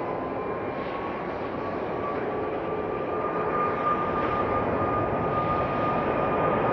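Boeing 737 jet engines running up for takeoff: a steady roar with a whine that slowly rises in pitch and grows gradually louder.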